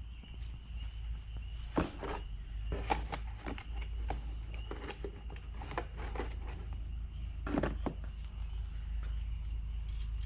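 Scattered light clicks and knocks of engine parts being handled: a rod bearing shell being seated in its cap and the cap set onto a connecting rod during assembly of a Jeep 2.5 L four-cylinder engine.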